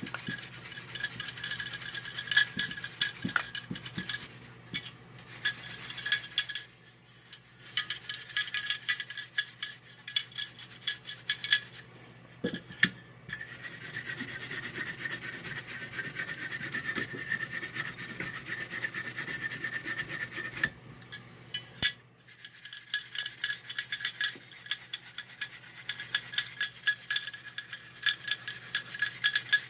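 Shine brush scrubbing fast back and forth over a Marx 666 toy locomotive's plastic shell, buffing the old polish to bring back its luster. The brushing comes in several long spells broken by short pauses.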